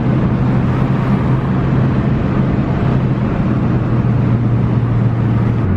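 Subaru Impreza 2.5 RS's flat-four engine with the muffler deleted, its exhaust giving a loud, steady low drone while driving. The drone climbs slightly in pitch and then drops near the end.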